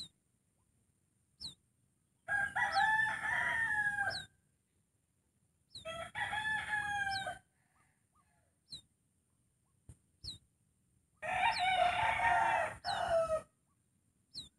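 Three loud bird calls, each lasting about one and a half to two seconds, with gaps of a few seconds between them. Behind them, a short high falling chirp repeats about every one and a half seconds.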